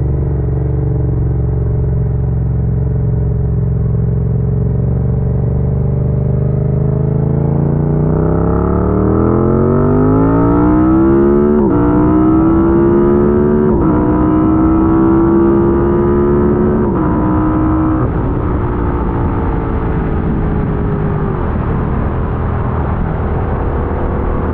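Yamaha MT-07 parallel-twin engine accelerating through the gears: a steady engine note, then a long rising pull from about six seconds in, three quick upshifts that each drop the pitch suddenly, and then the note falls away as the throttle is rolled off.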